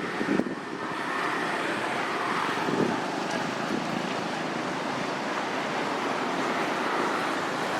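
A steady rushing noise that holds evenly after the first half second, with a few short, faint sounds over it near the start and around three seconds in.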